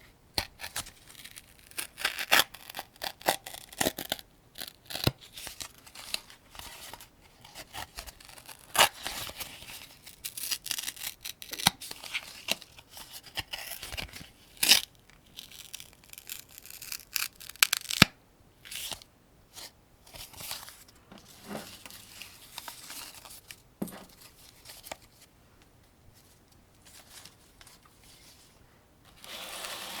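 Cartridges being loaded one at a time into an AK-47 75-round drum magazine: a run of irregular metallic clicks and scrapes with a few sharper snaps, thinning out near the end.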